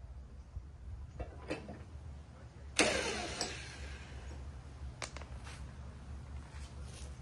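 Metal parts or tools knocking together: a few light clicks, and one loud metallic clank about three seconds in that rings briefly before dying away.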